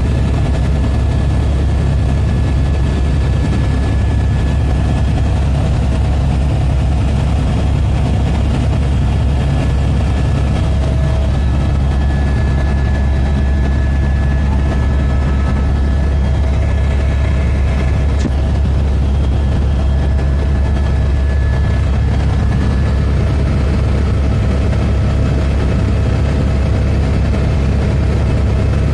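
Helicopter in flight: a loud, steady low drone from the rotor and engine, with a few thin steady whines above it.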